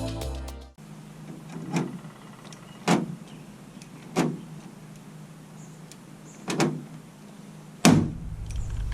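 Five short, separate knocks, the last the loudest, over a steady low hum, as objects are handled or set down. Music cuts off within the first second.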